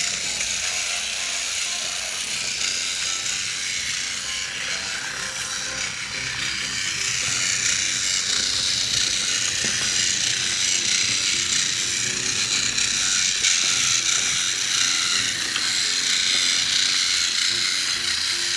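Toy Thomas the Tank Engine train running around its track pulling boxcars: a steady mechanical whirring and rattling of its small motor and wheels, a little louder in the second half.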